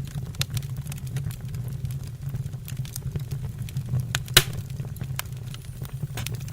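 Wood fire in a fireplace crackling over a steady low rumble of flames, with scattered sharp snaps and one loud pop about four seconds in.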